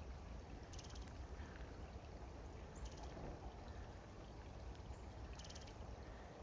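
Three short, high, rapid trills from small songbirds, about two seconds apart, over the faint steady rush of a creek.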